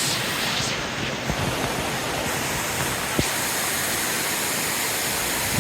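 Waterfall plunging and splashing, a steady rushing noise with no letup.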